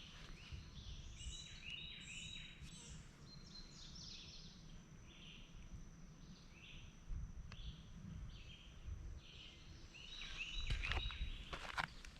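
Birds calling outdoors in short, repeated chirping notes, over a low rumble of wind on the microphone. Near the end, footsteps crunch on ground litter.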